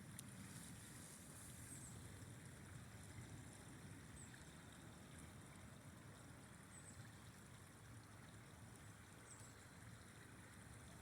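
Faint, steady rushing and gurgling of a flowing river.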